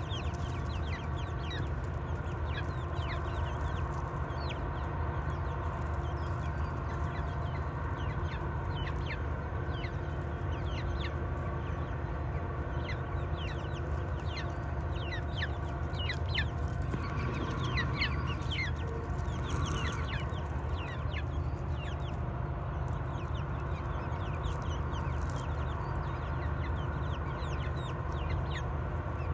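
A flock of hens clucking and chirping, many short quick calls one after another, over a steady low hum.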